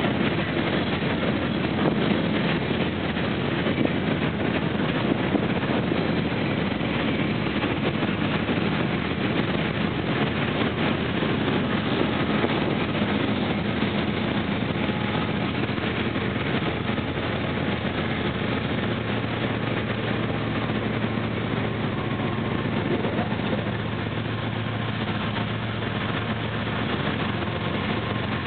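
Freight train of empty steel gondola cars rolling past, a steady noise of wheels on the rails. In the last several seconds the low steady drone of the rear GE Evolution Series diesel locomotives, pushing the train, comes in under it.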